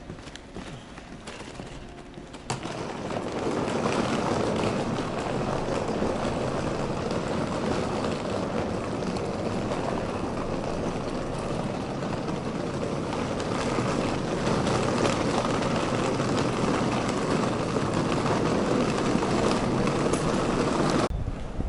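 Steady rumble of street traffic. It starts abruptly about two and a half seconds in, after a quieter moment, and cuts off suddenly just before the end.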